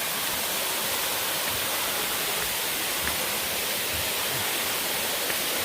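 Steady rushing of falling water from a waterfall, an even, unbroken hiss.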